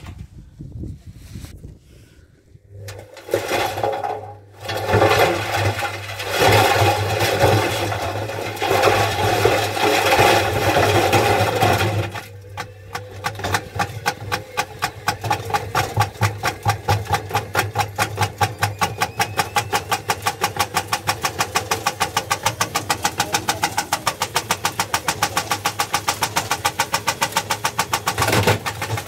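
Washing machine running hard: after a few quieter seconds, irregular loud rattling, then a steady knocking over a low motor hum that gets steadily faster as the drum spins up.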